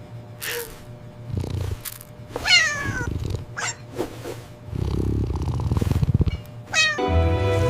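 Cat meowing several times in short, falling cries, with a stretch of pulsing purring in the middle.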